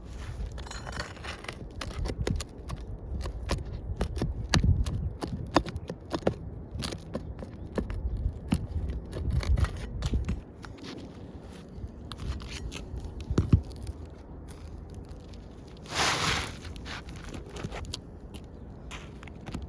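Roof shingles being handled and scraped, with many irregular clicks and scrapes over a low rumble. A short rushing burst comes about sixteen seconds in.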